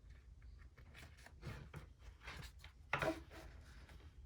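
Tarot cards being handled: quiet scattered taps and rustles, with a brief louder sound about three seconds in.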